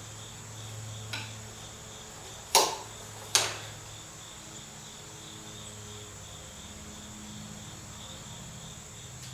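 Two sharp metallic knocks about a second apart, with a fainter click before them, from hand tools working on the car's front suspension parts. Under them run a steady low hum and a high pulsing chirp like a cricket.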